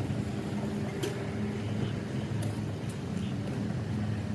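An engine running steadily at a low, even pitch, with a couple of faint clicks.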